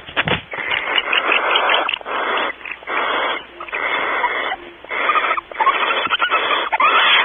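Barn owls hissing: a series of harsh, raspy hisses, each about half a second to a second long with short breaks between them. A low thump sounds right at the start.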